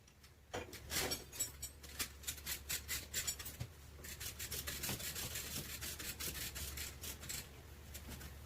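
Quick, repeated rubbing strokes of an abrasive against the car's sheet-metal body panel, like hand sanding or filing during bodywork; the strokes come in two runs, the second denser and steadier.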